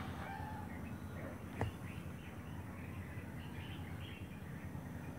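Small birds chirping in short, scattered calls over a steady low background hum, with one sharp click about a second and a half in.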